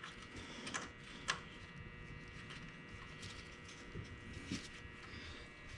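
Faint, scattered clicks of metal differential parts being turned and handled, four or so light ticks spread over several seconds, over a low steady hum.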